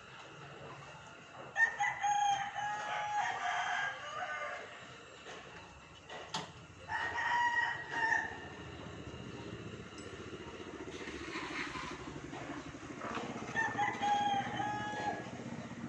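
Roosters crowing: three long crows, a few seconds apart.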